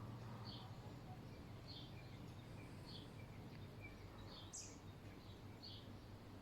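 Faint, short, high chirps repeated about once a second, like a small bird calling, over a steady low hum.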